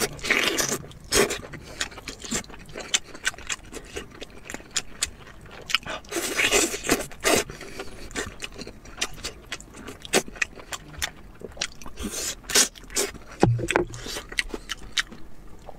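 Close-miked eating sounds: biting into and chewing braised lamb leg meat pulled off the bone, with many short mouth clicks and smacks and a few louder bites.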